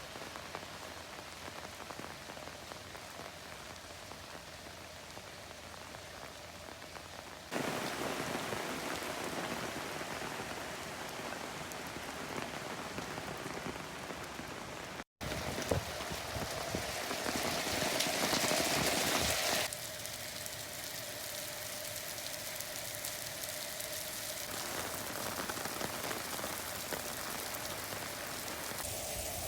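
Heavy rain falling steadily, heard across a run of clips that cut from one to the next, so the sound shifts suddenly several times, with a brief dropout about halfway.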